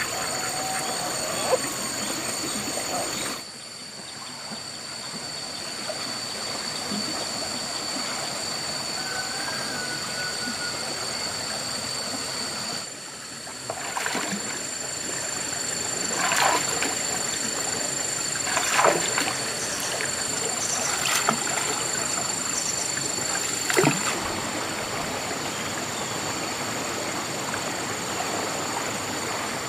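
Steady rush of flowing water over two constant high-pitched tones, with a few short sharp sounds in the second half.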